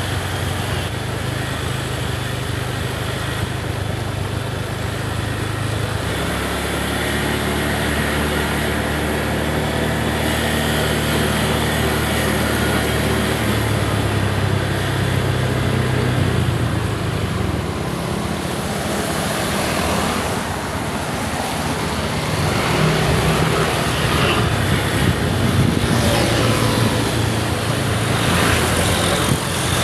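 A vehicle engine running as it drives, its pitch shifting now and then, under steady road and wind noise.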